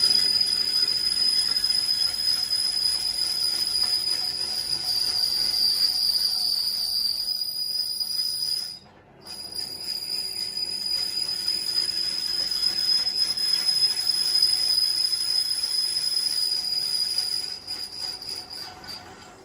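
High-pitched steady whine of a power tool working on a steel truck rim. It stops briefly about nine seconds in, resumes, and fades out near the end.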